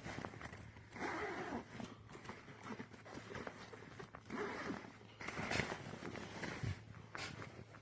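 A bag's zipper being pulled in two short runs, about a second in and just past four seconds, with a few light knocks and rustles of handling between them.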